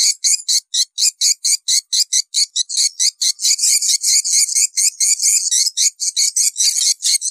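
Swiftlets twittering: a dense, loud run of short, high chirps at about five or six a second, with no pause. It is a swiftlet lure call, the kind played to draw swiftlets into a nesting house.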